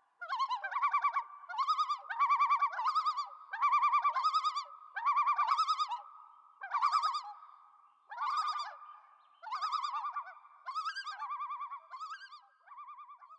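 Warbling, bird-like whistled tones in about a dozen short repeated phrases, each a quick trill of wavering pitch with short gaps between.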